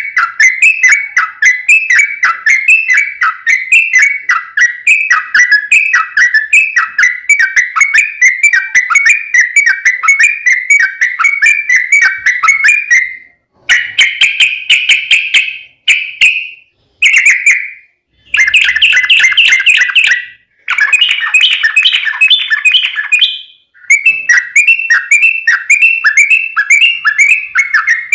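Yellow-vented bulbul (trucukan) singing a long, rapid run of repeated slurred chattering notes, broken by a few short pauses about halfway through before the run picks up again.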